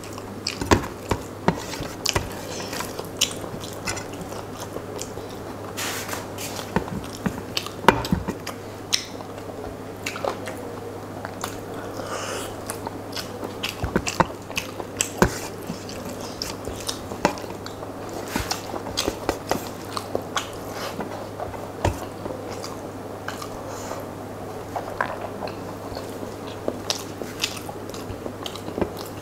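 Close-up mouth sounds of a man eating rice and curry by hand: wet chewing, lip smacks and many small clicks, with fingers mixing rice on a steel plate. A steady low hum runs underneath.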